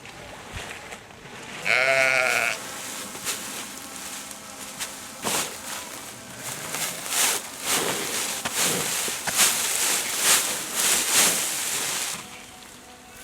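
Sheep and lambs bleating. One loud, wavering bleat comes about two seconds in, then from about five seconds in many overlapping bleats of ewes and lambs calling to each other as they reunite.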